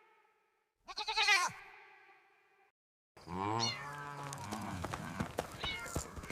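An animal call with a quavering, bleat-like pitch about a second in. From about three seconds on comes a busier run of animal cries mixed with short clicks and knocks.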